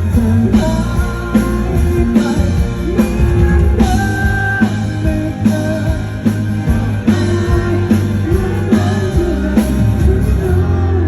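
Live rock band playing: drum kit keeping a steady beat under electric guitars and bass, with some singing.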